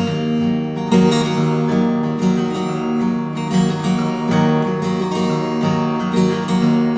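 Acoustic guitar strummed in a steady rhythm: an instrumental passage between verses of a folk song.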